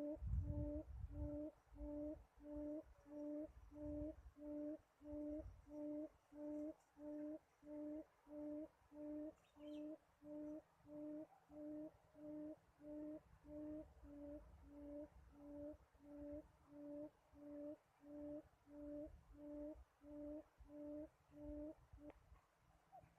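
A bird's low cooing note, repeated evenly about three times every two seconds in a long series that stops about a second before the end. There is a low rumble in the first seconds.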